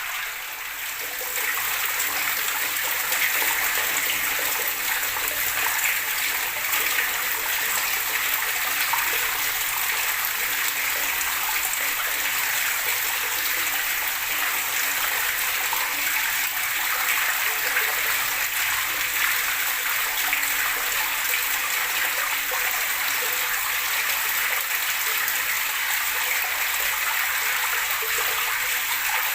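Running water gurgling in a steady rush, briefly softer just after the start.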